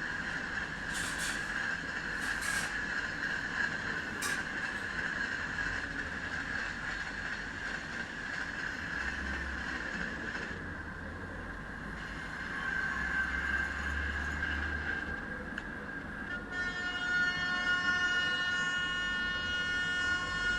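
Indian Railways train running at speed, a steady rush with a high ringing tone and a few sharp clicks in the first seconds. A low rumble swells through the middle, and a horn sounds long and steady for the last few seconds.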